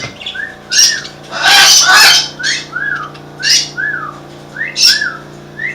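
Caged parrots squawking: five or six loud, harsh calls, the longest about halfway through, over another bird's short rising-and-falling chirp repeated about twice a second and a steady low hum.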